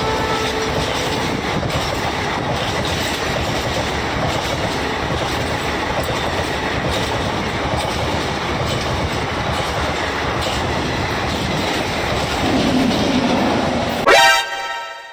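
A passenger train's coaches passing close at speed: steady rumble with wheels clattering over the rail joints. Near the end a sudden loud tonal blast with many overtones cuts in and fades within about a second.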